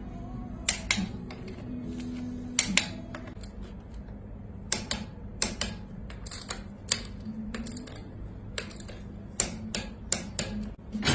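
Sharp, irregular metallic clinks and knocks of tools and wheel parts during a tyre change, some loud single strikes, over a low steady hum.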